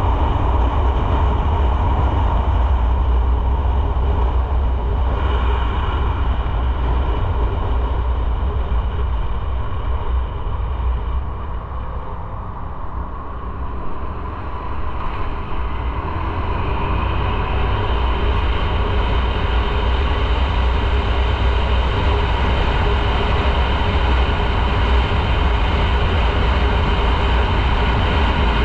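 Motorcycle on the move: engine running under wind noise on the microphone, steady, dropping for a few seconds near the middle and then building again.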